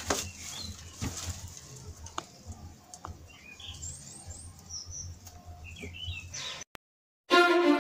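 Small birds chirping a few times over faint room noise, with an occasional soft knock. Near the end the sound cuts out briefly and loud violin music starts.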